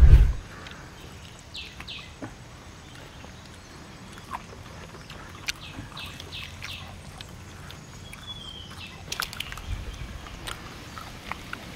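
A loud low thump at the very start, then scattered short bird chirps, with a few sharp clicks and a brief low rumble near the end.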